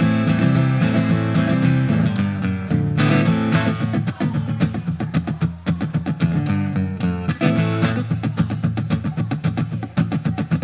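Acoustic guitar playing an instrumental passage with no singing; from about three seconds in, a quick, even strummed rhythm.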